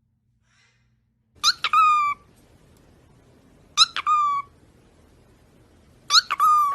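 A parrot giving three loud calls about two seconds apart, each a quick rising note with a sharp click, then a held note that sags slightly in pitch.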